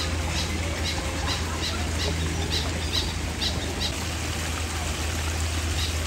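A bird calling a run of about nine short, high notes, a little over two a second, that stops about four seconds in. A steady low hum and hiss run underneath.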